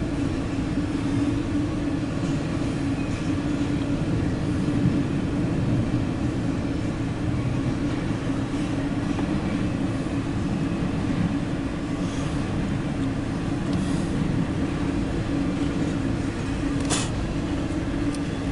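Steady road and engine noise inside a moving car's cabin, with a constant low drone. One sharp click comes near the end.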